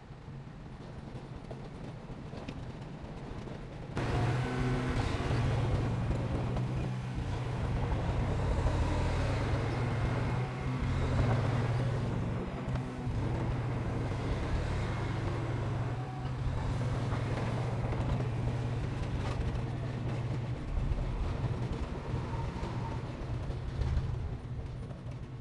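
Diesel engine of heavy earthmoving equipment running steadily with a deep hum. It gets suddenly louder about four seconds in.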